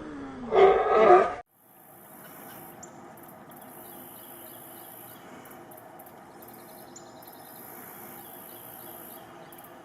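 A loud animal call that ends abruptly about a second and a half in. It is followed by a steady outdoor background with an insect buzz that starts and stops and short chirps repeated in quick runs.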